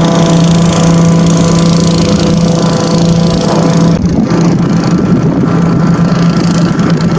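An engine running loudly at a steady speed, with a brief dip about four seconds in before it settles back to the same pitch.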